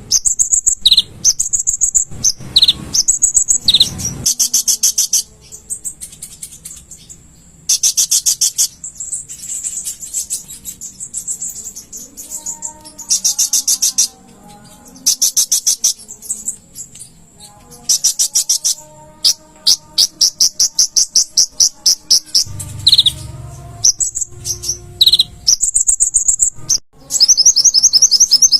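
Kolibri ninja (van Hasselt's sunbird) singing: bursts of fast, high-pitched chattering trills and sharp chirps, each lasting a second or two, separated by short pauses.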